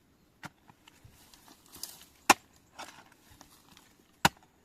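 Digging tool chopping into the ground in a few separate sharp strikes, the loudest about halfway through and another near the end.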